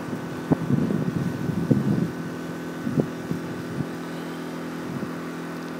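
Road traffic on a busy city road, a steady hum of passing and idling vehicles, with a few short low thumps in the first three seconds.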